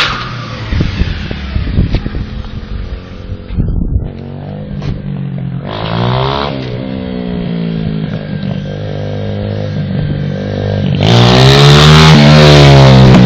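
125 cc pit bike's single-cylinder engine being ridden, revving up and down. The pitch rises and falls once near the middle, then it grows loudest near the end as it revs up again.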